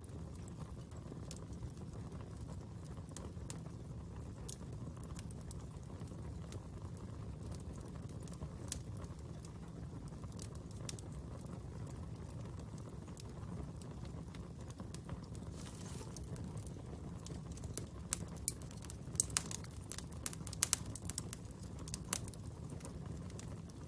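Fire burning with a steady low rumble and scattered sharp crackles; the pops come thicker and louder in the last few seconds.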